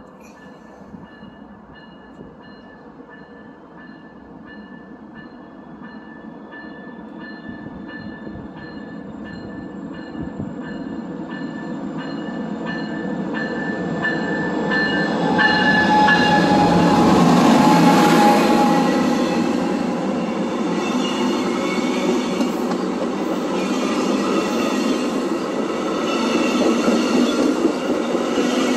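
Via Rail passenger train approaching and passing, growing steadily louder to its loudest about 17 to 18 seconds in, then a continuing rumble of wheels on the rails with scattered clicks. Through the first half a high, evenly pulsing ringing tone sounds over the approach.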